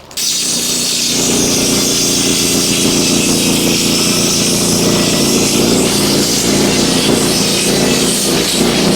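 An engine running steadily at constant speed. It cuts in abruptly at the start.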